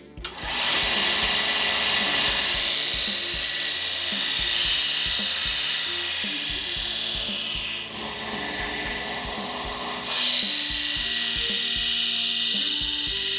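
Belt grinder with a coarse belt grinding a soft-steel knife blade to reset its profile: a loud, steady hiss of steel on the belt. About eight seconds in the hiss drops for roughly two seconds, as the blade comes off the belt, then returns.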